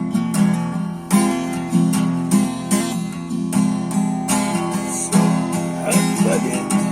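Acoustic guitar strummed in a steady rhythm, playing the instrumental introduction of a song before the voice comes in.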